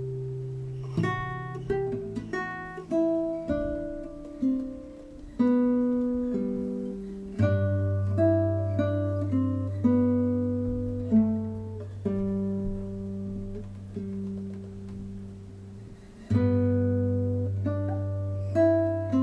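Acoustic guitar improvisation: single plucked melody notes that ring and fade, over low bass notes that sustain for several seconds, with a fresh bass note struck about seven seconds in and again about sixteen seconds in.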